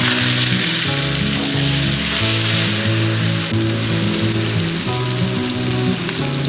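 Paste and sliced onions frying in hot oil in a wok, sizzling loudly from the moment they hit the pan and holding a steady sizzle as a ladle stirs. Background music with held melodic notes plays underneath.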